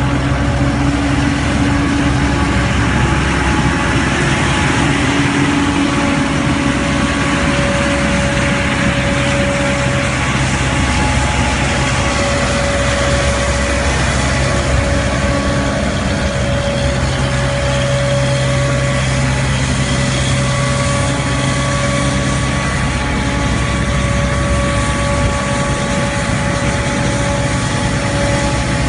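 Tymco 600 regenerative-air street sweeper running: a steady, loud engine drone with steady whining tones over it.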